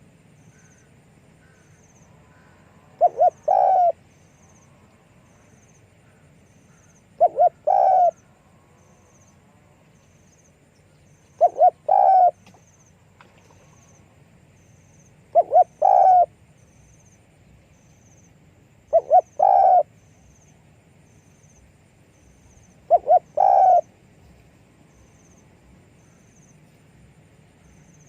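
Spotted dove cooing: six short phrases about every four seconds, each two quick notes followed by a longer coo.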